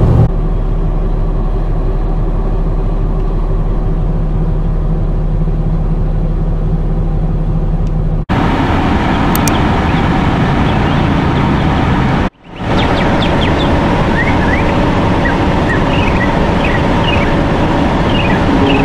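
Steady low rumble of a car idling, heard from inside the cabin. After two abrupt cuts, about 8 and 12 seconds in, steady traffic noise continues with short bird chirps over it.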